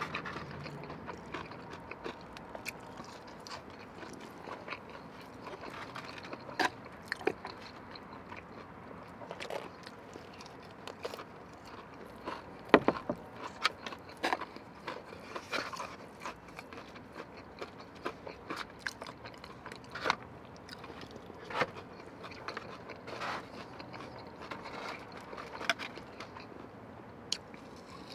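Close-miked eating: chewing and crunching of fried chicken tenders and crinkle-cut fries, with irregular sharp clicks and light scrapes. One click about 13 seconds in is much louder than the rest.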